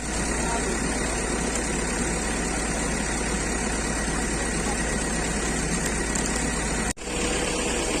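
An engine running steadily, with a brief dropout about seven seconds in.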